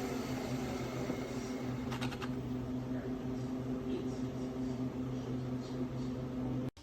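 Nespresso Vertuo Next capsule coffee machine running, a steady mechanical hum with a constant pitched whine. It cuts off suddenly near the end.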